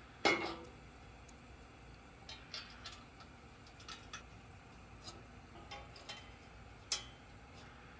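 Scattered light clicks and taps of a bumper cover and hardware being handled and fitted. There is a knock about a quarter second in and a sharper click near the end.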